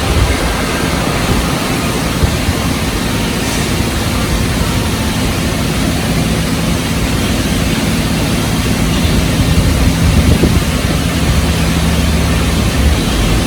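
Automatic car wash machinery running: a steady, loud rushing noise with a low motor hum underneath.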